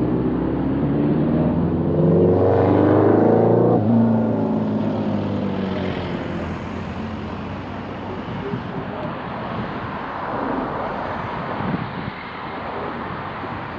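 Car engine pulling through the gears, rising in pitch, then dropping sharply about four seconds in at a gear change. After that comes steady road and tyre noise with the engine in the background.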